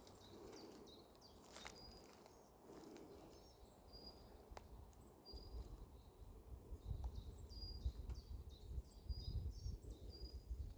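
Faint forest birdsong: small birds giving many short, high chirps, more of them in the second half, over a low rumble that starts about halfway.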